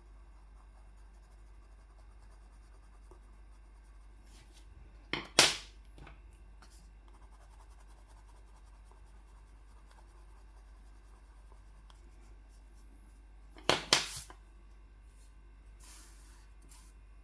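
Quiet room tone with a low hum, broken by two short, sharp clattering knocks: one about five seconds in and a quick double one at about fourteen seconds.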